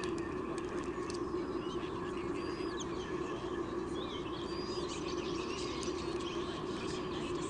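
Scattered short bird chirps and little whistled notes, high-pitched, over a steady low hum from the nest-cam microphone.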